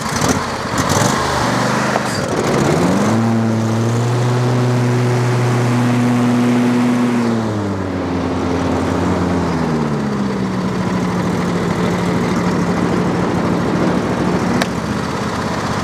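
Lawn tractor engine running with the mower blades engaged for a blade check. The engine revs up about three seconds in, holds steady, then drops back to a lower steady speed around eight to ten seconds in.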